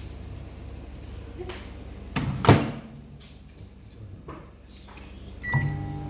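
Microwave oven running with a steady low hum, a sharp clunk about two and a half seconds in, and a brief pitched tone near the end.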